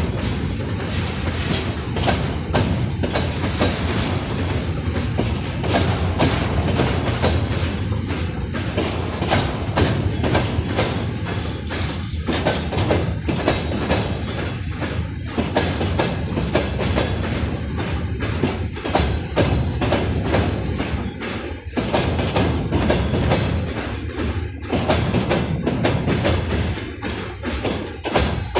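Train wagons behind a 2ES4K 'Donchak' electric locomotive rolling past, their wheels clattering continuously over the rail joints.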